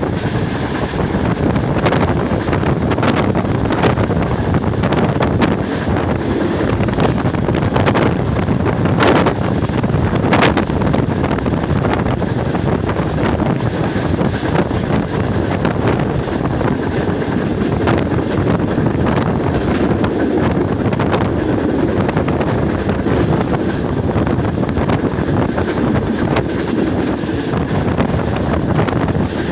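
Wind rushing and buffeting over a microphone held out of a moving passenger train coach, over the steady running noise of the train on the track, with a few sharp clicks in the first third.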